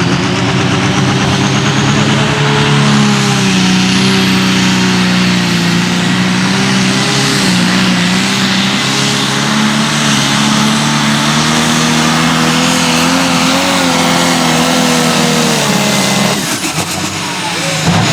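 Turbocharged super stock pulling tractor engine under full load on a pull, its note held high and wavering, with a high turbo whistle that climbs early on and holds. About 16 seconds in the engine is let off and the note and whistle fall away.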